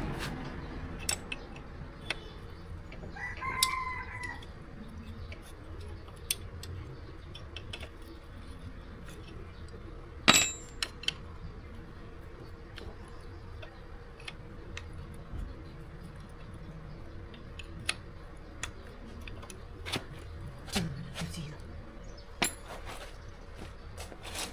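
A rooster crows once, briefly, a few seconds in. Scattered light clicks and knocks run through the rest, the sharpest about ten seconds in.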